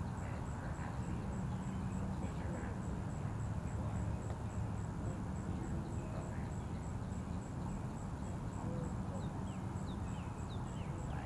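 Steady low outdoor background rumble and hiss at dawn, with a few short, high, falling bird chirps near the end and a faint high pulsing note repeating about four times a second.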